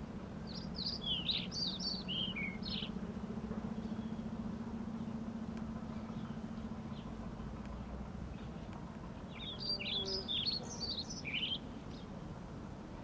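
A small bird singing in two quick bouts of short, falling chirps, one in the first few seconds and one about ten seconds in, over a steady low hum.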